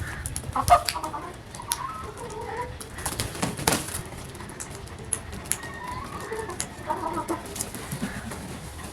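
Crows making short, harsh calls several times, with scattered sharp taps or knocks in between.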